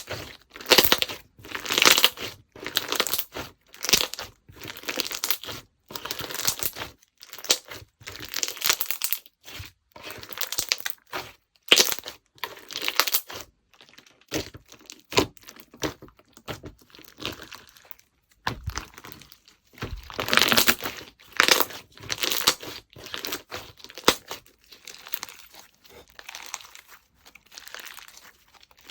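Hands squeezing, stretching and folding slime, giving a run of short squishy, crackling squelches about once a second, louder in places.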